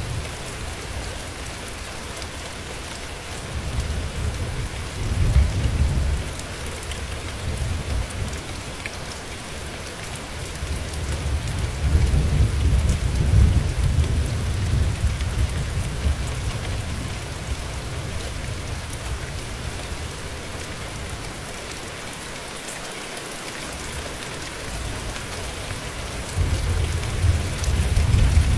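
Steady heavy rain hissing, with low rumbles of thunder that swell and fade three times: about four seconds in, for several seconds from about eleven seconds, and again near the end.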